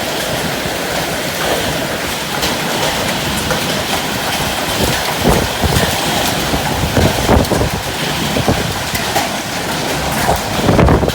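Steady rain falling with wind gusting: a constant hiss with scattered louder drops, and a strong gust near the end.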